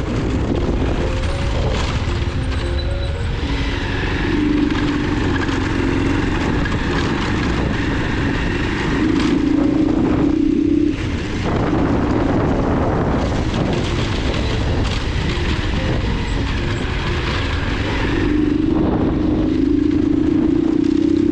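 Motorcycle running at road speed with a dense, steady rumble of engine and road noise, under background music.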